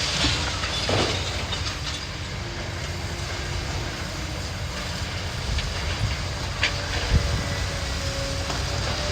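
Heavy demolition machinery rumbling steadily, with a few short knocks and clanks.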